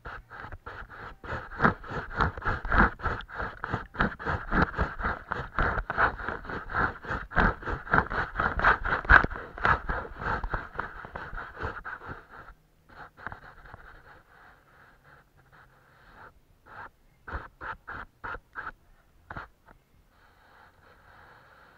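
Paintbrush scratching on paper in quick, dense strokes, thinning out to scattered strokes after about twelve seconds and stopping shortly before the end, where only a faint steady hiss remains.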